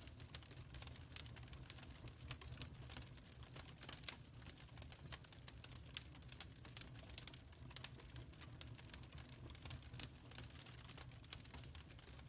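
Quiet wood fire crackling in a firepit: irregular small pops and snaps, several a second, over a steady low rumble.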